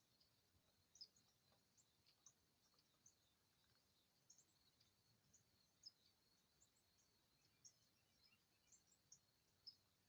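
Small birds chirping faintly, with many short, high chirps scattered irregularly over a quiet background.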